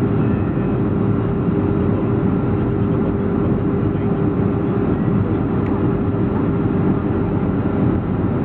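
Boeing 737-400 in flight, heard from inside the cabin: a steady rush of engine and airflow noise with a constant low hum.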